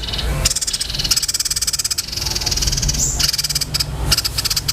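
A songbird's high, fast rattling trills, given in repeated bursts with short breaks between them, over a steady low hum.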